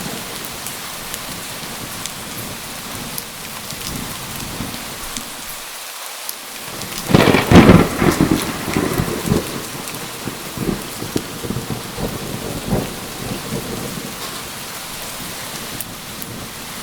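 Steady rain falling, with a loud thunderclap about seven seconds in that cracks sharply and then rumbles away over the next few seconds.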